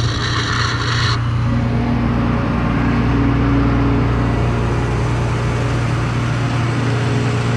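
Case 2144 combine's diesel engine running at a steady drone, heard from inside the cab, with a brief hiss of air in the first second.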